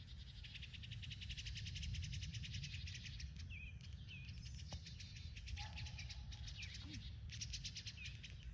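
Small birds making short chirps and calls over a fast, high pulsing trill that stops for a few seconds mid-way and comes back near the end, with a low outdoor rumble underneath.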